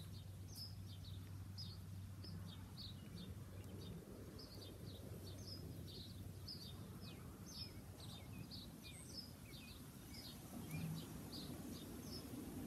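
Small birds chirping: short, high, falling chirps, several a second. Under them is a low background hum that drops away about four seconds in.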